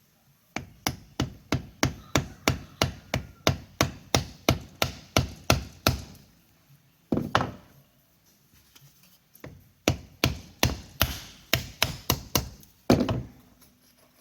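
Hammer tapping a part into place on the compound of a Monarch 10EE lathe: two runs of quick, even taps, about four a second, each ending in a harder blow, around seven seconds in and again near the end.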